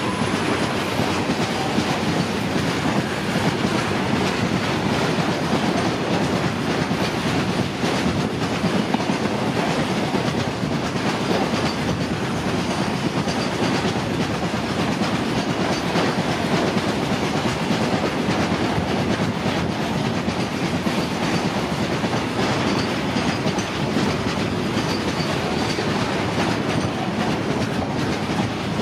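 A long train passing close at speed: a steady rush of wheels and coaches on the rails, with a rapid clickety-clack of wheels over rail joints.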